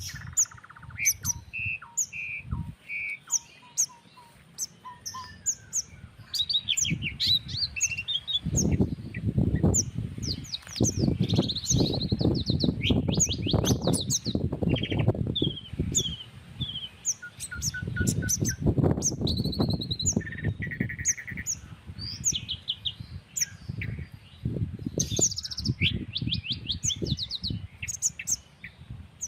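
Several songbirds chirping and trilling over one another, with many short calls and quick note series. A low rumble comes and goes through the middle, in keeping with a country breeze on the microphone.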